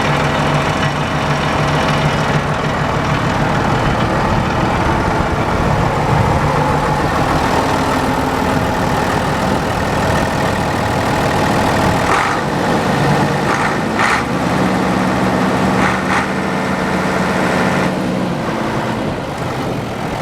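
Case 1070 Agri King tractor's six-cylinder diesel engine running steadily at idle, with a few short sharp sounds in the second half.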